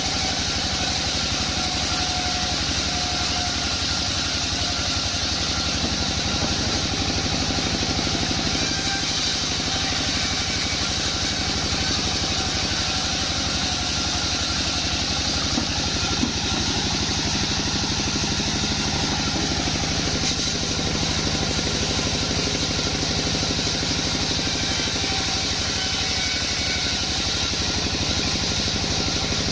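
Sawmill bandsaw machinery running steadily: an engine note with a constant higher hiss over it, unchanging throughout.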